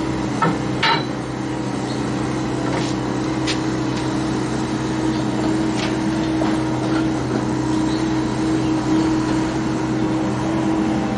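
A steady mechanical hum from a running engine or motor, with a few light clicks about a second in.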